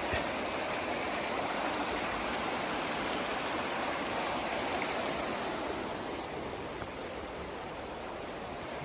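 A shallow river running beside the campsite, a steady rushing of water that eases slightly in loudness over the last few seconds.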